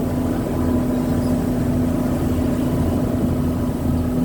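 Steady drone of a moving bus heard from inside the cabin: engine and road noise with a constant low hum.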